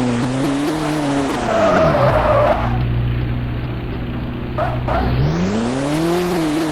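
Car engine note falling in revs with a short tyre skid about two seconds in, holding low for a few seconds, then revving back up and settling.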